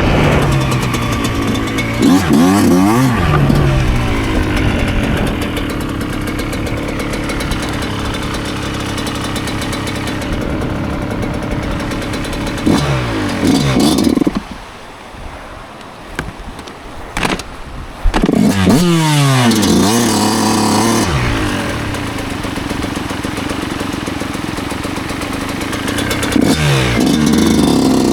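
A 2009 Yamaha YZ125's 125cc two-stroke single-cylinder engine revving up through the gears under riding load, with a steady stretch between pulls. About halfway through it drops off to a much quieter low idle for a few seconds, then pulls hard again several times.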